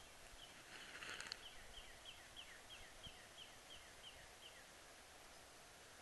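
A bird calling faintly in woodland: a series of about a dozen short, downward-slurred notes, about three a second, that stops after about four and a half seconds. A brief rustle comes about a second in.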